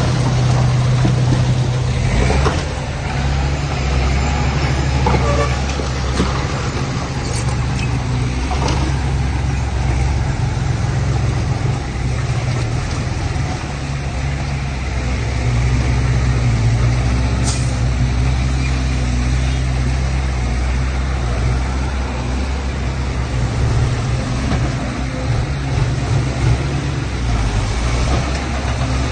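Diesel engines of heavy earthmoving machinery running steadily, the engine note shifting up and down now and then, with a few sharp knocks.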